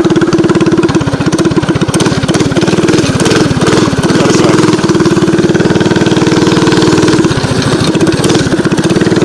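Mini bike's small single-cylinder engine running under way, its pitch easing and picking back up with the throttle, with a loud steady drone throughout.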